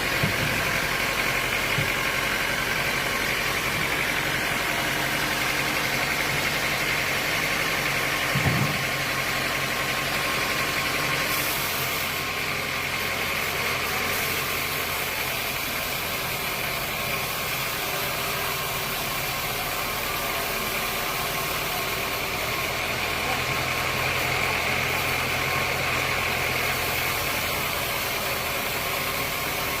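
A steady engine running at an even speed, with a single knock about eight and a half seconds in.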